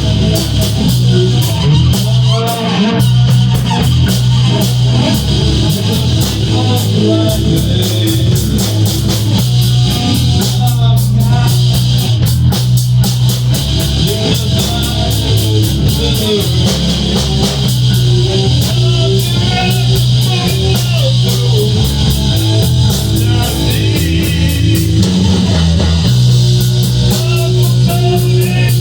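Rock band playing an instrumental passage: guitar carrying moving melodic lines over a steady bass guitar and busy drums and cymbals.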